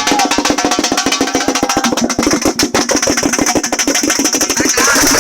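Tamate (tamte) frame drums beaten in a fast, dense, driving rhythm.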